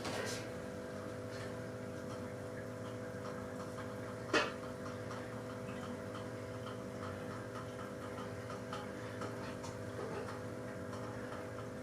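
Steady low hum with light, regular ticking, about three ticks a second, and one sharp click about four seconds in.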